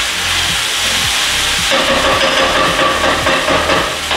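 Minced chicken frying in sesame oil in a hot skillet: a steady sizzle and splatter that grows louder and fuller a little under two seconds in.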